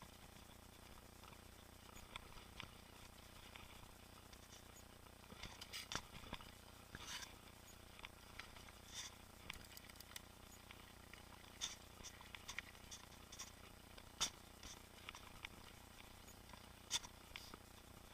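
Mountain bike rattling over the trail: faint scattered clicks and light knocks, a few sharper than the rest, over a low steady hiss.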